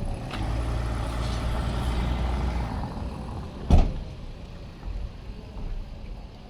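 Low engine rumble of a motor vehicle close by, which drops away about three seconds in, followed by a single loud bang a second later.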